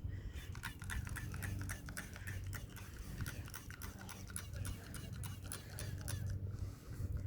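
Soapy water being worked over a car windscreen by hand: a quick, uneven run of short strokes, several a second, with a low steady hum underneath.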